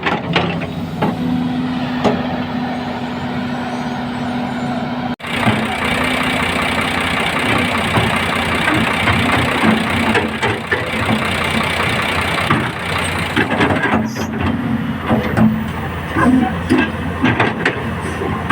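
Heavy equipment's diesel engine running at idle, with scattered metallic knocks and clanks of repair work on the machine. The sound breaks off abruptly for an instant about five seconds in.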